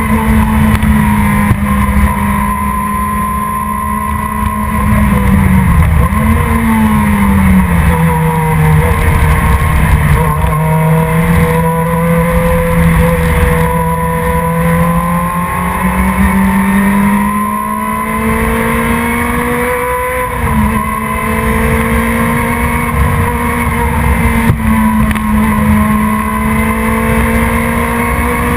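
A racing production sports car's engine running hard for the whole stretch, its pitch easing down for a few seconds and then climbing back up, with a sudden break in the note about two-thirds of the way through, like a gear change.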